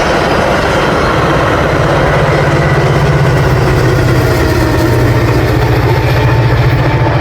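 Train locomotive engine running with a steady low drone.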